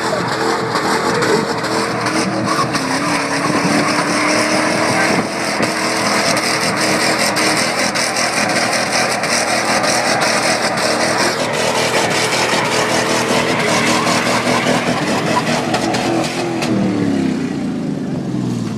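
Ford F-150 and F-250 pickup engines revving hard under load as the trucks pull against each other. The note holds high and steady, then falls away near the end.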